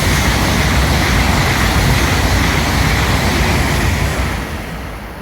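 Joetsu Shinkansen train running through the platform: a loud, steady rush of wheel and air noise that fades away in the last second or so.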